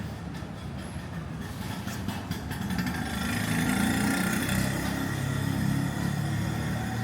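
Street traffic: a motor vehicle's engine running close by, growing louder from about three seconds in and easing off near the end, as it passes.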